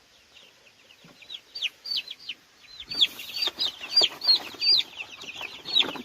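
A group of young chicks peeping: many short, high, falling cheeps, scattered at first and crowding together into a dense chorus from about halfway through.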